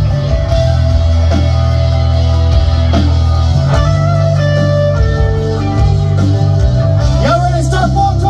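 Live band playing the instrumental intro of a country-rock song: electric guitar over a loud, steady bass line, with some sliding pitches near the end.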